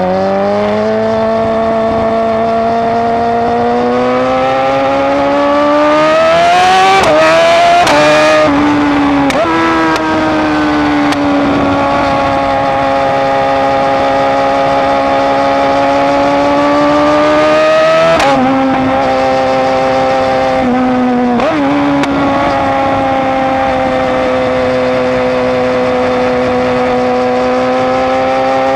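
BMW S1000RR inline-four engine through an Austin Racing exhaust, pulling through the gears: the pitch climbs and then drops sharply at each quick-shifted gear change, with a few quick changes about a quarter of the way in and two more about two-thirds in, holding a steady note in between.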